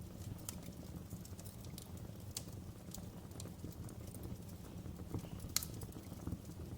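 Wood fire crackling in a fireplace: irregular sharp pops and snaps over a steady low rumble of the burning, with one louder pop about five and a half seconds in.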